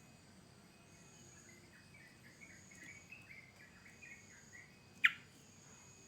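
Yellow-vented bulbul calling: a faint run of short falling chattering notes, then one loud sharp call sweeping down in pitch about five seconds in. A high, steady insect trill comes and goes behind it.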